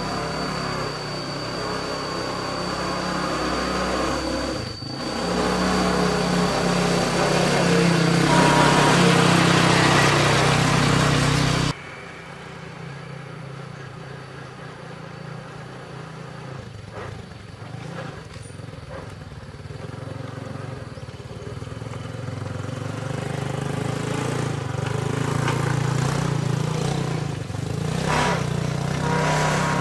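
Vehicle engine running and rising in level, cut off abruptly about twelve seconds in. It then runs more quietly and builds up again towards the end.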